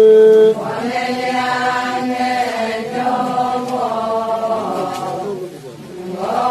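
A single voice holds a long sung note, then a group of voices chants in unison: the chorus's answer to the lead singer in an Adi ponung call-and-response song. The chorus fades about five seconds in and comes in again near the end.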